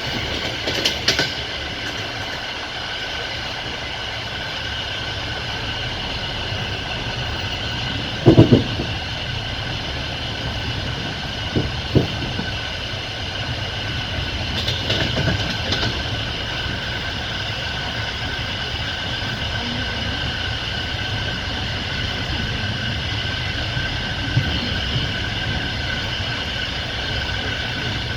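Passenger train carriage rolling along the track, a steady rumble with a thin high whine from the wheels. Scattered, irregular knocks of the wheels over rail joints break through it, the loudest a double knock about eight seconds in.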